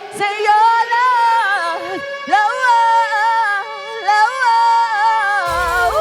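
A woman singing wordless runs over music with a long held note. About five and a half seconds in, a falling, siren-like sound effect with a rush of noise cuts in.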